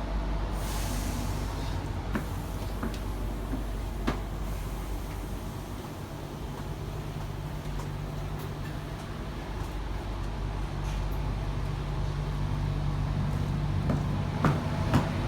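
Steady low electrical and mechanical hum inside a Sydney Trains Tangara motor car, with a few sharp clicks and knocks. A deeper hum note grows louder over the last few seconds.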